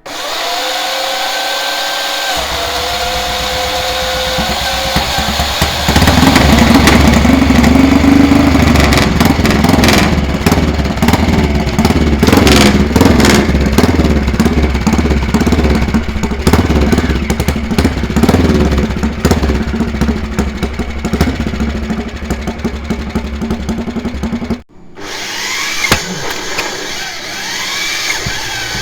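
Air-cooled classic racing motorcycle engine: it starts firing about two seconds in, then runs much louder from about six seconds with repeated throttle blips. After a sudden cut near the end, another racing motorcycle engine revs up and down.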